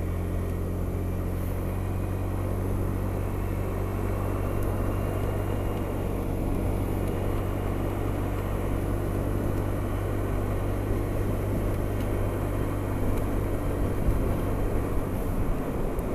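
Honda SH300i scooter's single-cylinder engine running steadily while riding, with wind and road noise.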